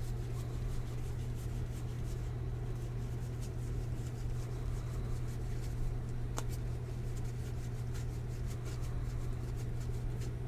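Faint clicks and rustles of baseball cards being flipped through and handled, one sharper click about six and a half seconds in, over a steady low hum.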